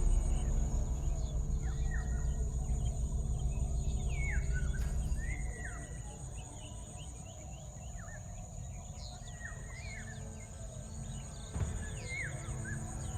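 Natural bush ambience: a steady high-pitched insect drone, with short falling bird calls repeated many times. A low rumble under it fades out about five seconds in.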